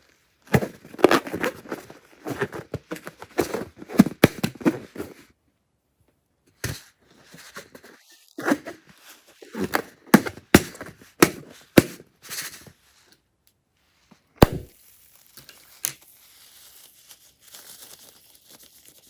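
Crunchy slime being squeezed and worked by hand, giving dense crackling and squelching clicks in two long runs, then a single sharper knock about two-thirds through, followed by faint rustling.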